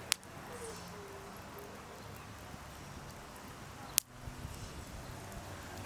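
Two sharp pops about four seconds apart, typical of burning wood popping in a campfire, over a steady low background.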